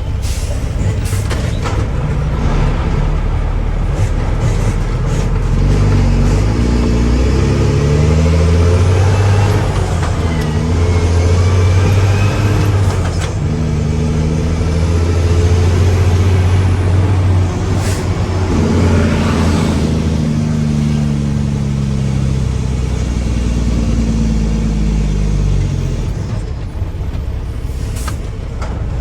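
Mack truck's diesel engine running under load, its pitch rising and falling several times as it revs up and drops back, with a brief hiss of air about two thirds of the way through.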